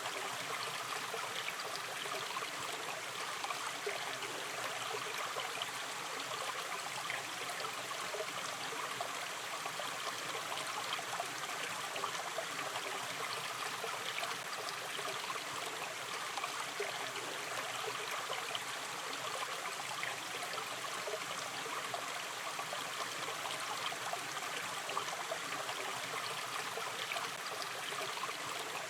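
A gently running river stream: water flowing and trickling steadily, with a fine, even babble of small splashes.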